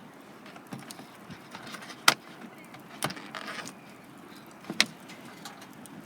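Wood fire crackling, with a few sharp pops: the loudest about two seconds in, another about three seconds in, and one near the end.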